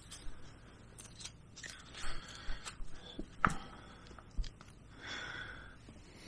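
Scattered clicks and light knocks of small metal scooter drive parts being handled, with brief scraping as parts slide against each other and one louder knock about halfway through.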